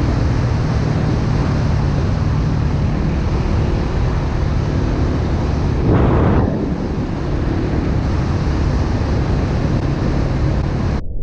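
Dirt bike engine running at a steady speed, with wind rushing over the microphone. There is a brief louder rush of wind about six seconds in, and the sound cuts off suddenly just before the end.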